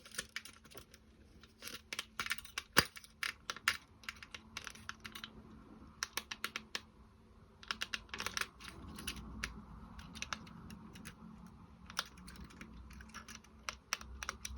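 Irregular small clicks and taps of wooden clock parts being handled as a wooden clock hand is pushed onto its shaft, with one sharper knock a little under three seconds in.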